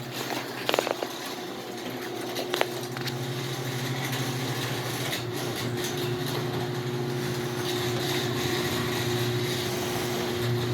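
LiftMaster 3255 garage door opener running, its motor humming steadily as it raises the door, with a few sharp clicks as it starts about a second in. The hum cuts off suddenly at the end as the door reaches the top.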